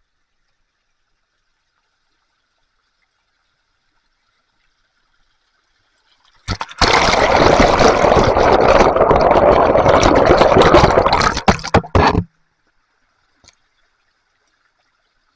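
Loud rush of water close to the microphone, starting about six and a half seconds in, lasting about six seconds and cutting off suddenly.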